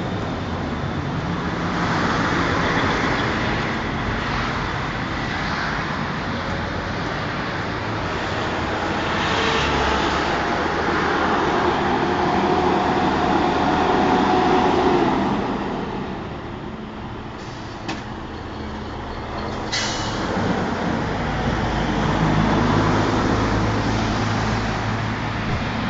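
Heavy DAF trucks' diesel engines running on the road, their note rising and falling as they move. About twenty seconds in, there is a short sharp hiss.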